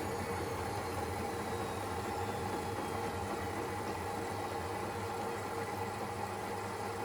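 Siemens Extraklasse XLS 140 A front-loading washing machine running steadily mid-cycle: an even mechanical whine with a low hum, no breaks or knocks.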